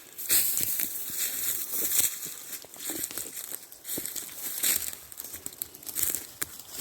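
Rustling and crackling of brush, leaves and twigs as someone pushes through thick undergrowth on foot, irregular and continuous with many small snaps.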